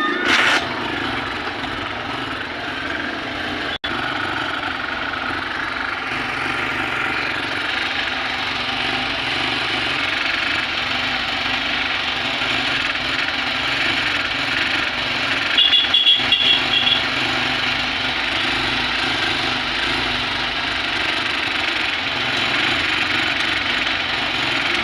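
A BS6 fuel-injected motorcycle engine catching and then running steadily, shown running with its fuel pump bypassed. A short series of high beeps sounds about two-thirds of the way through.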